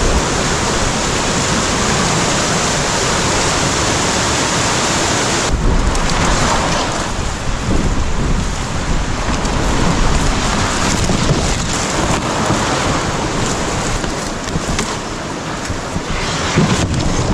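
Loud, steady rush of river rapids: white water pouring over rocks, with wind buffeting the microphone. The sound changes abruptly about five and a half seconds in.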